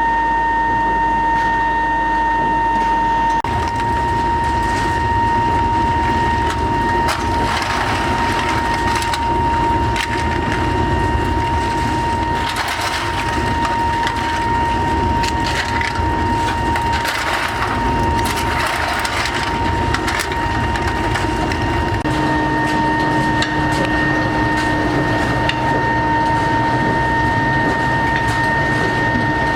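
Workshop machinery running with a steady high whine, with irregular knocks and scraping from metalwork over it.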